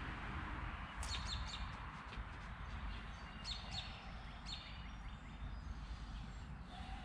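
Small birds chirping in short runs of quick, high chirps, about a second in and again around three and a half and four and a half seconds, over a steady outdoor background hiss and low rumble.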